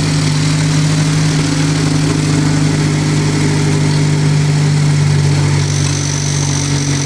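Turbocharged four-cylinder Mazdaspeed3 engine, freshly rebuilt with a GTX3071 turbo, running steadily at idle on its first startup. A faint high whine joins it near the end.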